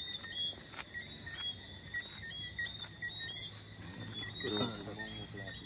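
A chorus of short, high chirps repeating about twice a second, with a man's voice faintly heard near the end.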